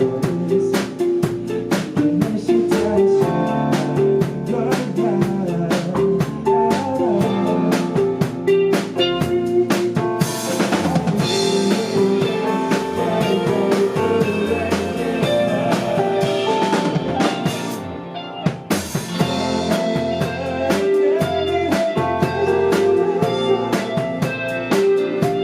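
A band playing a song, with a drum kit's snare and bass drum keeping a steady beat under sustained pitched instruments. The drums drop out briefly about three-quarters of the way through, then the full band comes back in.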